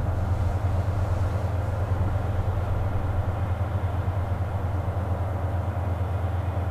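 Diesel train running, with a steady low engine drone and rolling noise.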